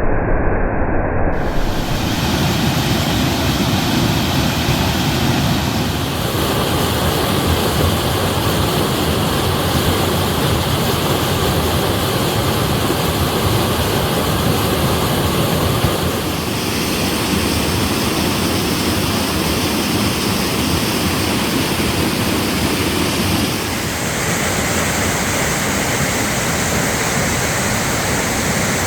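Waterfall: loud, steady rushing of falling water, changing abruptly in tone several times, about 1, 6, 16 and 24 seconds in.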